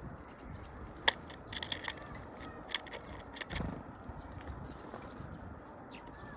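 Birds pecking at feed: a scatter of sharp beak taps and clicks on a hard surface, loudest about a second in, with a duller thump near the middle.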